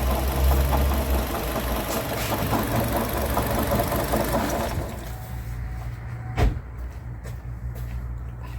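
Small Chevrolet car engine idling with a strange noise from the engine bay, which the mechanic suspects comes from a poly-V belt-driven accessory (A/C compressor, water pump or alternator). About five seconds in, the sound drops in level and turns thinner, and a single sharp knock follows a little later.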